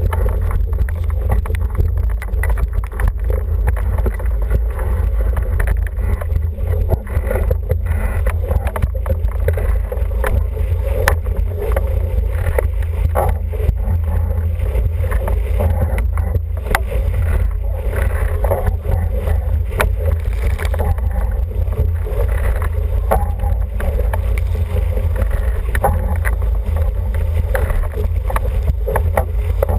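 Wind buffeting the microphone aboard an International 14 racing dinghy under sail, over the rush of water along the hull, with scattered sharp knocks.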